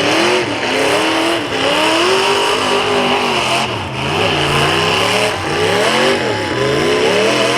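Demolition derby cars' engines revving up and down over and over, several at once, with the pitch climbing and dropping every second or so.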